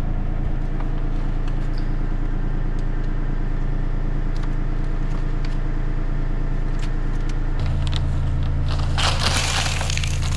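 Excavator engine running steadily while digging a water-line trench. About seven and a half seconds in the engine note steps up under load, followed by a loud crunching burst of earth being dug for about a second.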